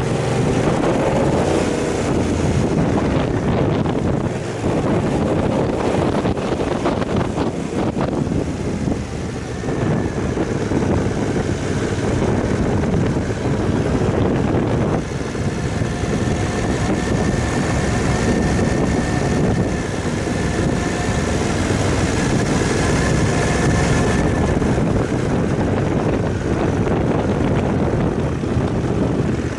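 Aprilia Caponord 1200's 1197 cc V-twin engine running steadily at low road speed, mixed with wind noise rushing over the helmet-mounted microphone.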